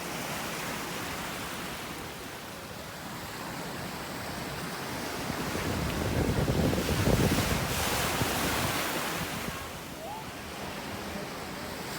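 Surf washing onto the beach, with wind buffeting the microphone; the sound swells louder for a few seconds around the middle.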